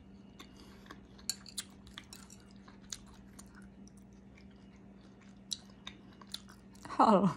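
A person eating fried minnows from a spoon: small crunches and clicks of chewing. Near the end there is a brief vocal sound with falling pitch.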